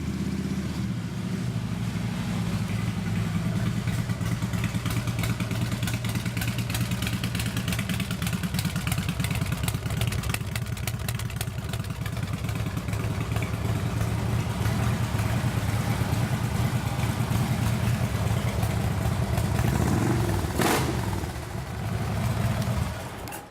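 2014 Harley-Davidson Ultra Limited's 103-inch fuel-injected Twin Cam V-twin idling steadily through Rinehart exhaust pipes. It gives one brief rev near the end and is shut off just before the end.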